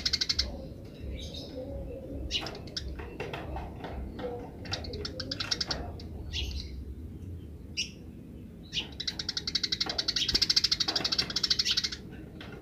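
Eurasian tree sparrows chattering in rapid 'grece' call trains, a fast run of short, high chirps at the start and another from about 9 to 12 s, with scattered single chirps in between.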